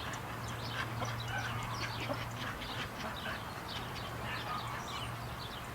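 Many small birds chirping, a dense run of short high chirps, over a steady low hum.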